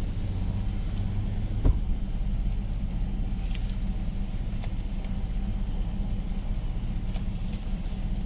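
Car engine running, heard from inside the cabin as a steady low hum, with a single sharp knock about two seconds in.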